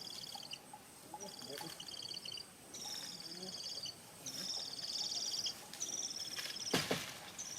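Parrot calls: about five high, rapid trilling calls, each about a second long and falling slightly in pitch, repeated about once a second. A single sharp knock comes near the end.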